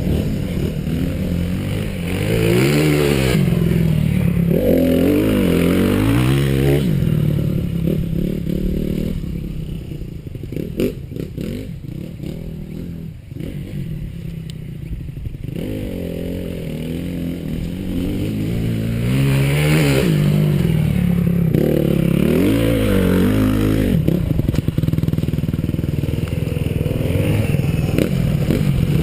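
Honda CRF250R's four-stroke single-cylinder motocross engine revving up and dropping back again and again as the bike brakes into and powers out of turns on a sand berm, with a quieter stretch in the middle.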